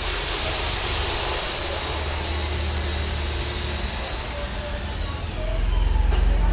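Angle grinder running with a high whine over a steady hiss. The whine sags slowly in pitch, then winds down from about four seconds in, and a low hum comes up near the end.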